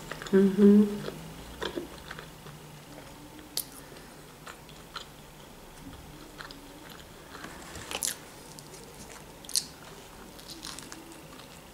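Close-miked chewing with soft wet mouth clicks and a few sharp crunches, then a bite into a bread-and-sausage open sandwich near the end. A short hummed "mm" is heard right at the start.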